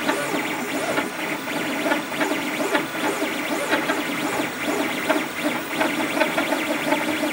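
Leapfrog Creatr HS 3D printer running, its stepper motors whining in many quickly shifting, gliding pitches as the axes move. The owner calls it a strange noise.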